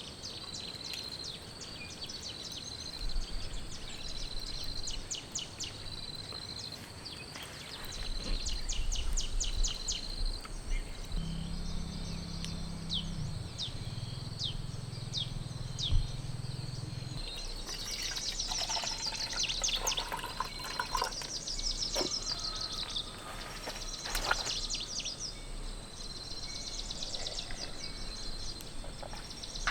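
Wild birds singing: a short high phrase repeated about once a second, giving way to busier chirping in the second half, over steady outdoor background noise. A low hum is heard for several seconds around the middle.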